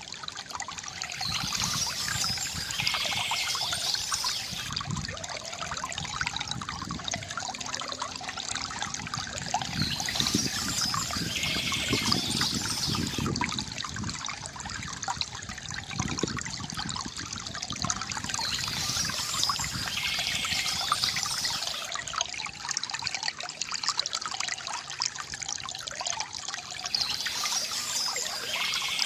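Water from a bamboo fountain trickling and gurgling continuously. Birds chirp in spells of a few seconds that recur about every nine seconds.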